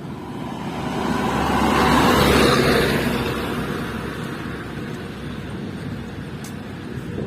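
A road vehicle passing close by: a rush of engine and tyre noise that builds to a peak about two seconds in and then fades, over a steady low engine rumble.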